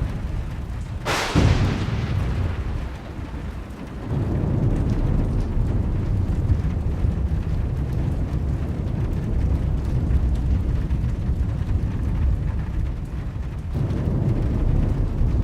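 A sharp thunderclap cracks about a second in and trails off, over steady low rumbling noise of the storm.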